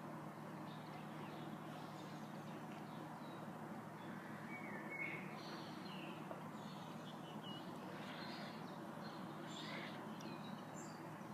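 Quiet outdoor background: a faint steady low hum with scattered faint bird chirps, the clearest a short call about five seconds in.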